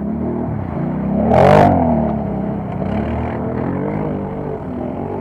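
Several racing ATV engines revving and changing pitch. One comes loudest about a second and a half in, with a brief hissing spray, and its pitch falls away as it passes.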